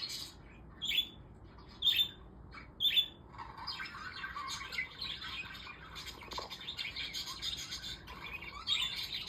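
Pet budgerigars (parakeets) calling: three sharp chirps about a second apart, then a steady busy chattering warble.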